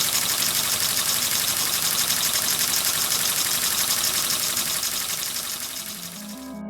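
Empire B43 live steam engine running fast: a steady hiss of steam with a rapid, even beat, fading out near the end.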